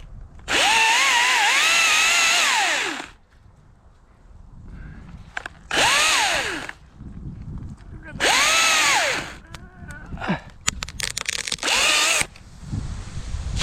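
Echo 2500T battery top-handle chainsaw revved in bursts: one long rev of about two and a half seconds, then three shorter ones. Its electric motor whine rises and falls in pitch with each trigger pull. A quick run of sharp clicks comes between the last two revs.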